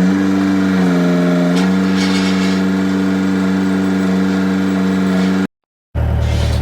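A loud motor running steadily with a strong hum, its pitch shifting briefly about a second in. It cuts off suddenly near the end and a lower hum follows briefly.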